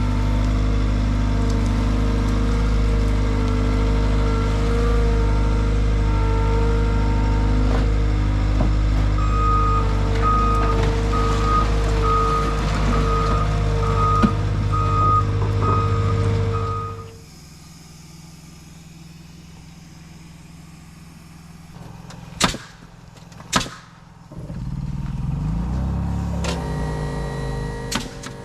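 Skid-steer loader engine running steadily, with its backup alarm beeping about once a second while it reverses. The engine sound cuts off abruptly about two-thirds of the way through. Two sharp knocks follow, then a quieter motor rising in pitch.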